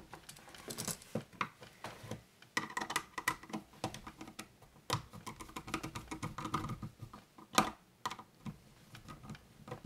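Screwdriver tightening the silver terminal screw of an electrical outlet onto the white wire, with irregular small clicks and scrapes of metal and wire, and one sharper click late on.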